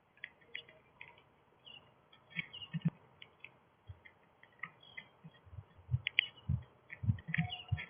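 Small backyard birds chirping at a feeder: short high chirps scattered throughout, with soft low thumps coming more often in the second half.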